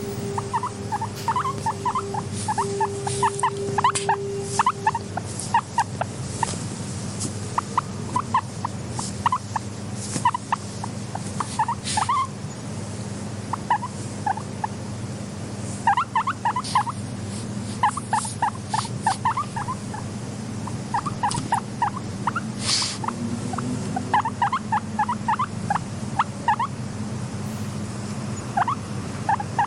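Guinea pig vocalising in bursts of short, rapid chirping notes, several a second, over a steady low hum, with occasional clicks.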